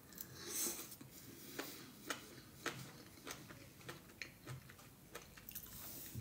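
A person taking a forkful of air-fried potatoes and vegetables and chewing it with the mouth close to the microphone: a brief noisy bite about half a second in, then a run of faint, irregular chewing clicks.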